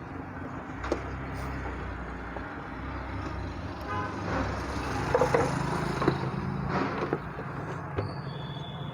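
Road traffic from the street, with a vehicle horn tooting midway, over a few light clicks of a screwdriver working on the mixer grinder's coupling nut.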